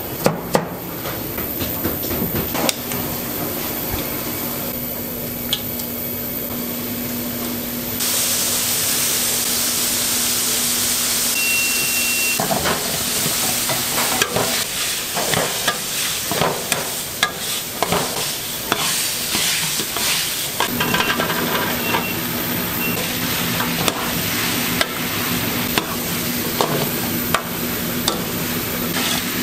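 Food sizzling in a hot pan as it is stirred and tossed, with frequent clatter of utensils and a steady hum underneath. The sound changes abruptly several times.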